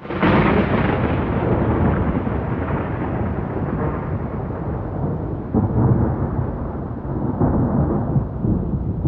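A thunder clap that breaks sharply and rolls on into a long, heavy rumble, swelling again about five and a half seconds in and once more near the end.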